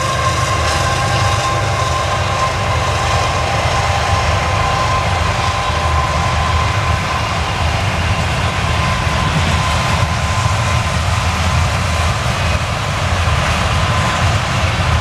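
Double-stack container well cars of a Canadian Pacific freight train rolling steadily past: a constant loud rumble of steel wheels on rail, with a thin ringing tone running over it that fades and comes back.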